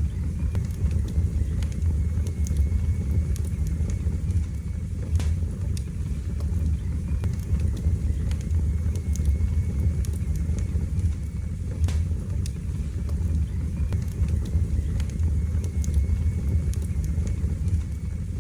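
Fire burning in a fireplace: a steady low rumble of flames with scattered sharp crackles and pops every second or few.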